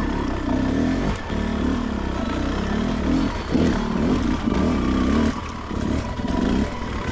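Beta 300RR two-stroke dirt bike engine revving in short bursts, its pitch rising and falling again and again as the throttle is worked over rough ground.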